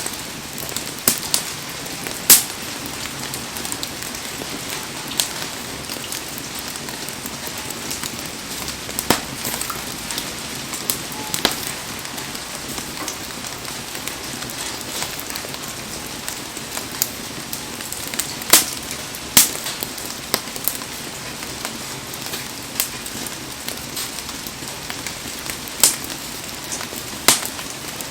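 Wood bonfire crackling with scattered sharp pops at irregular intervals, over the steady hiss of heavy rain.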